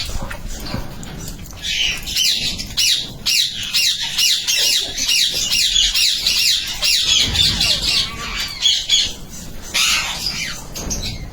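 Indian ringneck parakeets squawking, a rapid run of shrill harsh calls at about three a second, with a shorter burst of calls near the end.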